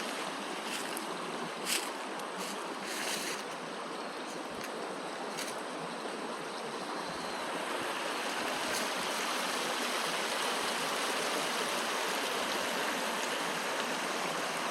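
Mountain stream flowing, a steady rush of water that grows a little louder about halfway through, with a few light clicks in the first few seconds.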